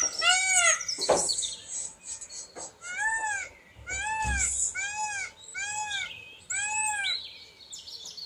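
A bird calling repeatedly in short, rising-then-falling notes: one call at the start, then a run of five evenly spaced calls about a second apart.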